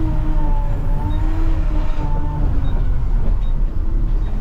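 Front-loader garbage truck's engine running as the truck drives, a steady low rumble with a humming whine that drifts slightly up and down in pitch.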